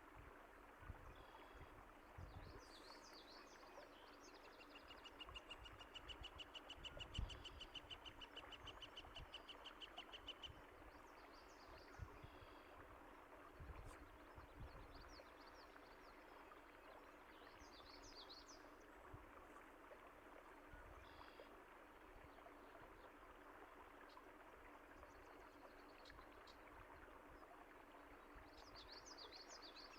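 Faint steady running water with songbirds chirping over it; about five seconds in one bird gives a rapid, even trill that lasts about five seconds, and short chirps come and go throughout.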